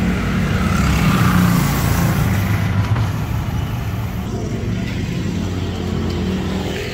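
Road traffic running by, a steady low rumble of passing cars and trucks, with one vehicle going past loudest about one to two seconds in.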